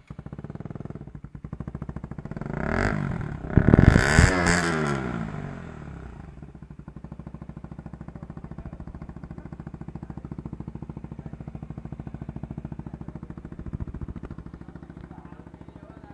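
KTM RC200's single-cylinder engine breathing through a newly fitted Akrapovic exhaust with bend pipe, idling, then revved hard about three seconds in and falling back to a steady idle. A brief small blip of the throttle comes near the end.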